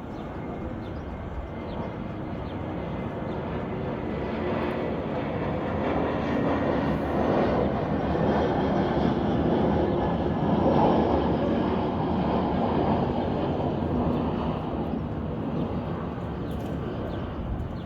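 A steady rushing engine noise that slowly swells to its loudest a little past the middle and then fades.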